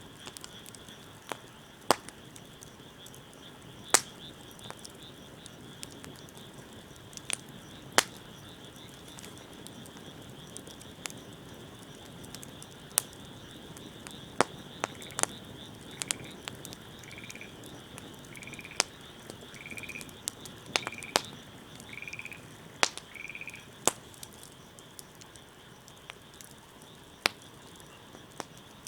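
Wood fire crackling, with sharp irregular pops every second or two over a steady high-pitched drone. From about the middle, an animal gives seven short calls, roughly one a second.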